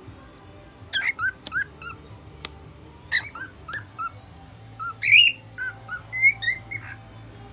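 Male lutino cockatiel singing: four bursts of short, chirpy whistled notes, each a quick rising or falling whistle.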